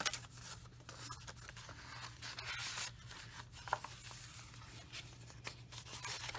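Paper pages of a handmade junk journal being turned and handled: soft, scattered rustling and brushing of paper with a few light ticks.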